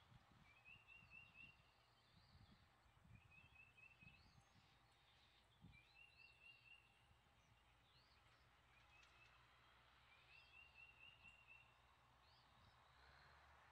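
Faint bird song: short rapid trills repeated every second or two, some with a quick rising note, over a faint low steady rumble of a distant tractor mowing with a bush hog.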